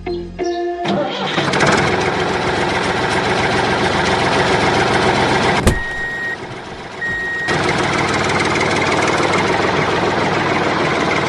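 Engine starting and then running steadily, with a brief drop in level about six seconds in and two short high beeps during the drop.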